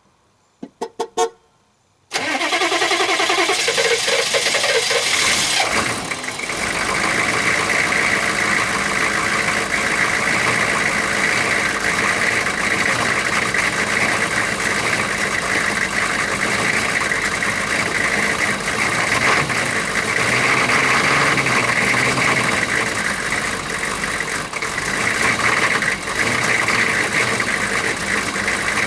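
Chevrolet 6.5 L turbo-diesel V8 being started after years of sitting: a few short sounds, then about two seconds in the engine starts and keeps running. It is loud, with extra hiss for the first few seconds, then settles into a steady run.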